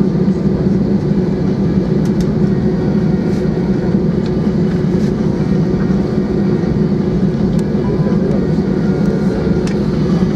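Steady cabin noise of an Airbus A320-232 taxiing: the drone of its IAE V2500 engines at taxi power over a low rumble, with a few faint clicks.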